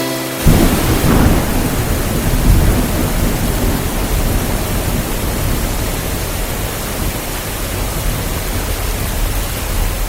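Heavy rain with a low rumble of thunder, starting abruptly about half a second in and swelling over the first few seconds before it settles to a steady downpour.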